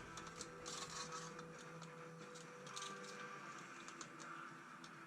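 Faint, scattered small clicks and taps of metal parts being handled during riveting work on a steel breastplate.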